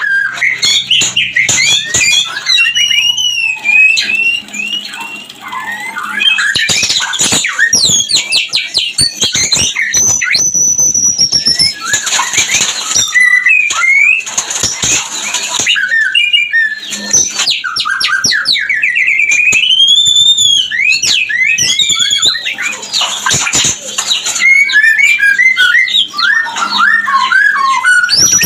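White-rumped shama in breeding condition singing a fast, varied song of clear whistles, trills and harsh rasping notes, with long gliding whistles between them.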